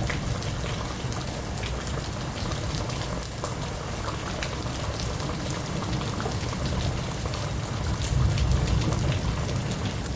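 Heavy monsoon downpour: a steady rush of rain with a dense patter of drops, heard through an open sliding glass door. It swells a little louder about eight seconds in.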